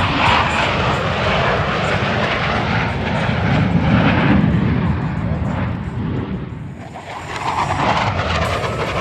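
Engine noise of an aircraft flying a display, loudest about four seconds in, dropping away briefly near seven seconds, then building again.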